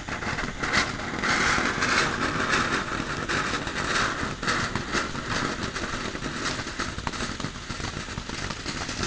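Small consumer firework burning: a steady hiss of spraying sparks, strongest in the first half, with many sharp crackling pops throughout.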